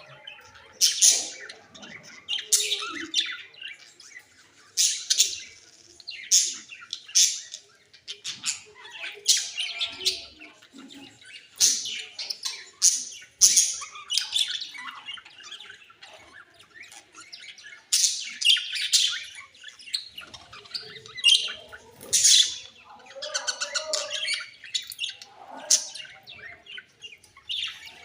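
Budgerigars squawking and chattering in short, sharp, high-pitched bursts that come in irregular clusters, as when budgies squabble.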